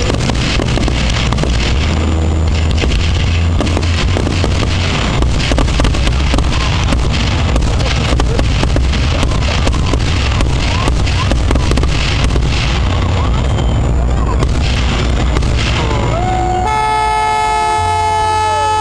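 Aerial fireworks bursting: many sharp cracks and bangs in quick succession over a steady low rumble. Near the end the bangs stop and a car horn sounds for about two seconds.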